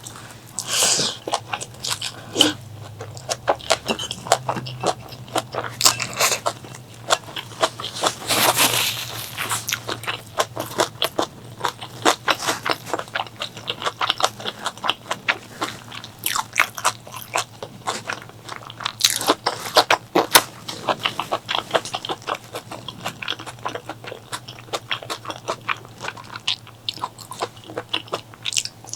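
A person chewing and biting food close to the microphone: rapid, continuous wet clicks and crunches, with a few louder bites or slurps about a second in and again around eight seconds in.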